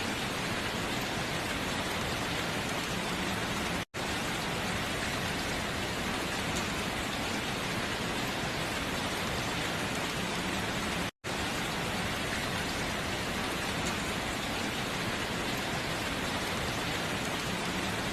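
Steady heavy rain pattering on window glass, a dense even hiss with no let-up. The sound cuts out completely for an instant twice, about 4 and 11 seconds in.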